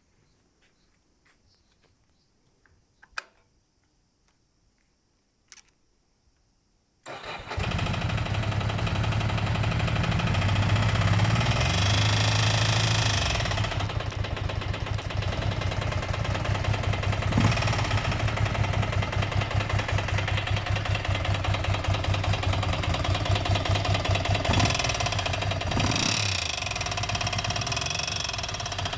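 Ducati Monster 400's air-cooled V-twin starting about seven seconds in, after a few faint clicks, then running with a fast even beat and revving up briefly twice. It has an abnormal noise from the cylinder head, which the owner calls quite grating.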